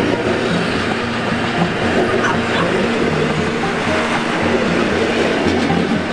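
A train rolling past close by, with a steady loud rumble of wheels on the rails.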